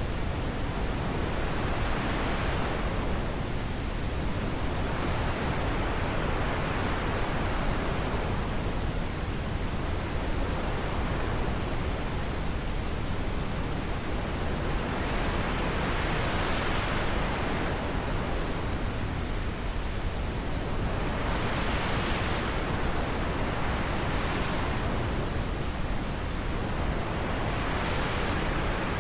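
Wind blowing steadily, a constant hiss with gusts that swell and fade every few seconds.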